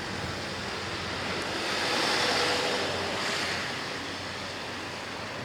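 Sea waves washing against the rocky shore, a steady rush that swells about two seconds in and then eases off.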